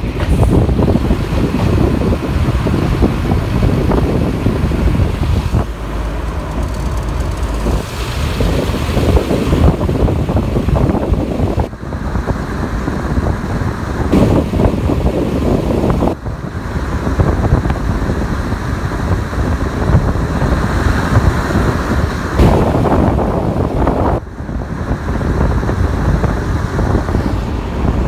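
Wind buffeting a microphone held out of the window of a moving Class 121 diesel railcar, over the train's running noise. The buffeting dips briefly three times.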